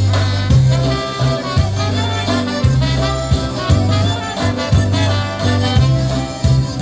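Polka band playing live, an instrumental passage with brass over a bass line that sounds about once a second.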